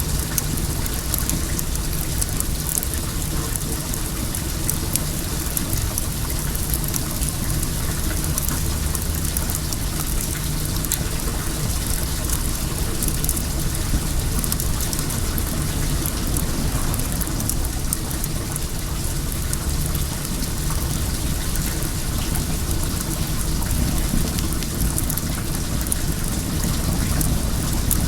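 Wood fire crackling with many small quick pops over a steady rush of flowing well water.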